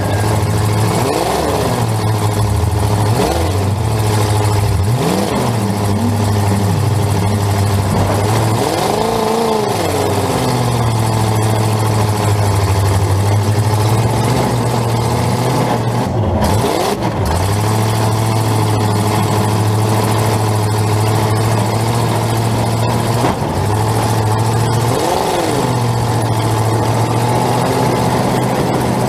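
Full-size demolition derby car's engine heard from inside the cabin, revving up and falling back over and over between stretches of a steady low drone.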